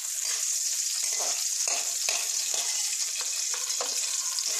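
Bitter gourd slices sizzling in hot mustard oil in an aluminium wok, with a metal spatula repeatedly scraping and tapping on the pan as the fried pieces are lifted out.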